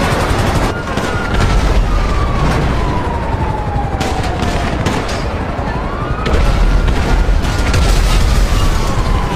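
An emergency siren wailing, its pitch falling slowly, sweeping quickly back up about six seconds in, then falling again, over a loud low rumble with many sharp cracks and pops.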